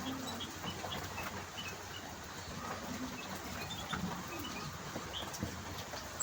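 Zebra finches calling: short, scattered chirps over a steady background hum.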